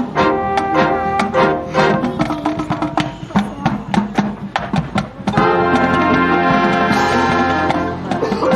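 Marching band of brass and percussion playing. For about five seconds it plays short, accented notes punctuated by drum strikes, then the full band holds a loud sustained chord.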